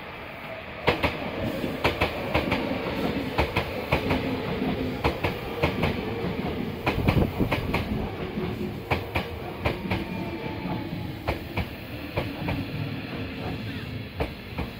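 Hankyu 1000 series electric train rolling into the platform close by at slowing speed. Its wheels clack irregularly over rail joints and points over a steady running rumble that swells about a second in as the cars reach the microphone.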